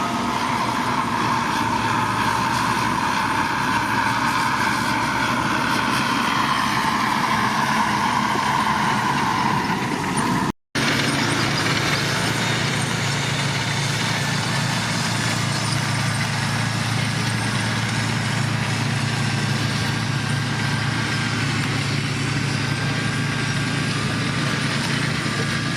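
Heavy construction machinery engines running steadily. The sound cuts out for a moment about ten seconds in, then a lower, steady engine drone carries on.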